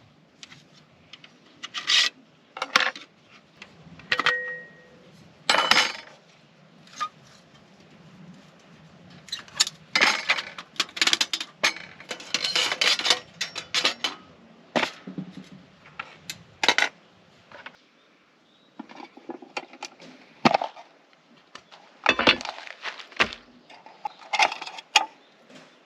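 Camping gear or cookware being handled: an irregular run of clinks, clatters and knocks of hard objects, some metallic, with one short ring about four seconds in.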